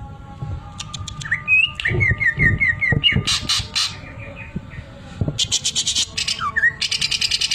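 Cucak ijo (green leafbird) singing: a rising whistle, a quick run of about seven short down-slurred notes, and bursts of fast, dry rattling trills, the last one starting near the end. The rattle is its mimicry of a sewing machine.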